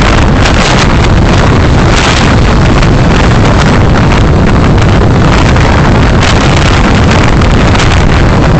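Loud, steady rush of wind and road noise picked up by a dashcam microphone while driving, with brief crackles throughout.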